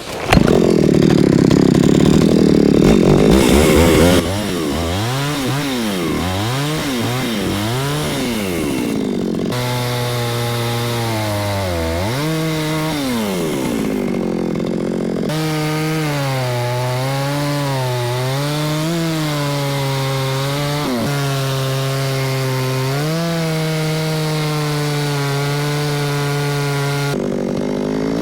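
Two-stroke chainsaw working at full throttle for about the first four seconds, as when cutting into a log, then the engine is eased off and blipped, its pitch rising and falling over and over between idle and part throttle.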